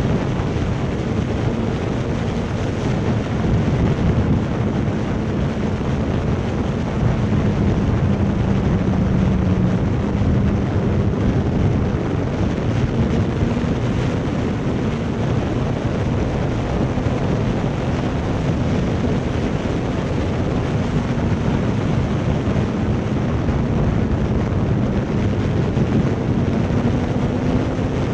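Motorcycle cruising at a steady speed: wind rushing over the microphone, with the engine's even drone underneath that drifts only slightly in pitch.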